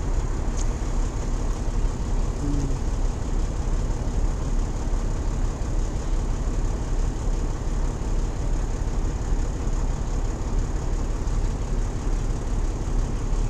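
Peterbilt 379 semi truck's diesel engine running steadily, heard from inside the cab, its low end strongest.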